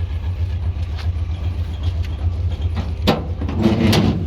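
GMC Sierra pickup engine idling with a steady low rumble. A few sharp clicks, then a louder burst of metallic knocks and rattles about three seconds in, from the loose tailgate cable area being handled.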